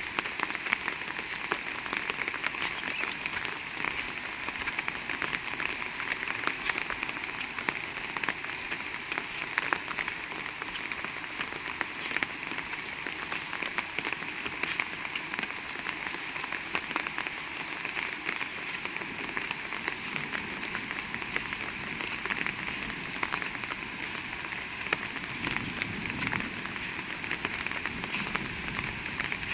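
Heavy rain falling steadily, a dense patter of individual drop hits over an even hiss.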